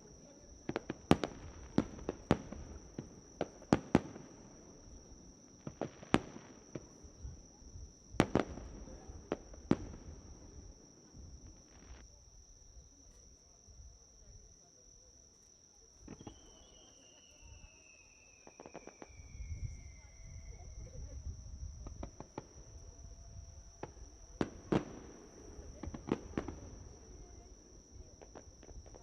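Fireworks bursting overhead: sharp bangs and crackles come in quick irregular clusters in the first ten seconds, thin out in the middle, and pick up again near the end. About sixteen seconds in, one shell gives a whistle that falls steadily in pitch for several seconds. A steady high insect trill runs underneath.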